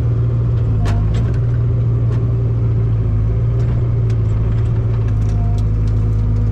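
Mini excavator engine running steadily, with a few short light knocks scattered through it.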